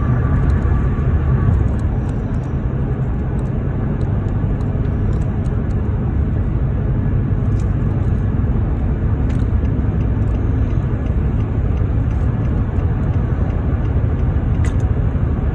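A car driving along a highway: a steady low rumble of tyre, road and engine noise.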